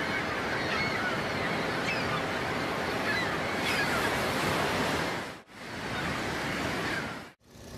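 Sound effect for a battleship: a steady rush of sea waves and wind, with faint high squeaks over it. It cuts out briefly twice in the second half.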